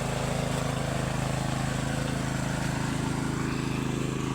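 A homemade tractor's small 7.5-horsepower engine running steadily under way, with a fast, even beat.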